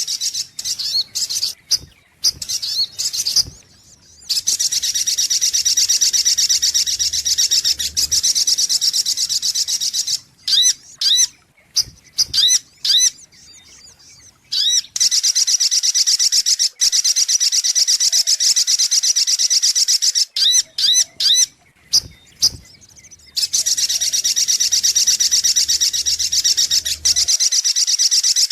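Sogok ontong bird call played as a lure recording. Long, fast, high-pitched trills lasting several seconds each alternate with bursts of short, sharp chirps.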